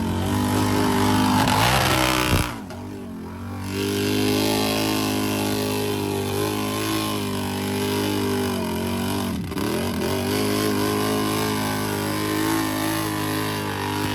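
Engine of an off-road mud racing machine running hard at high, fairly steady revs. It drops off sharply for about a second a little over two seconds in, then comes back, and dips briefly again later.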